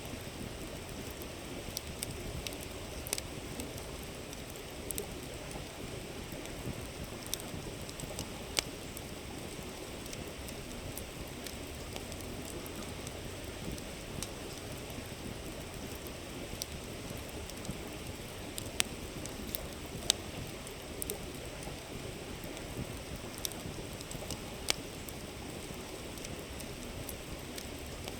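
Wood campfire crackling, with sharp pops at irregular intervals, over the steady rush of a flowing river.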